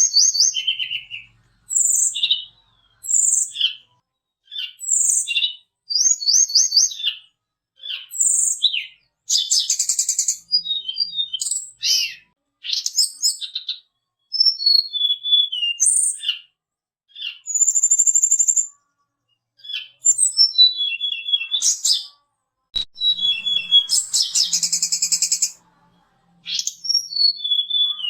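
Tledekan gunung (sulingan gunung) songbird singing a run of short, high whistled phrases with quick slides and trills, separated by brief pauses; a couple of phrases are dense and buzzy.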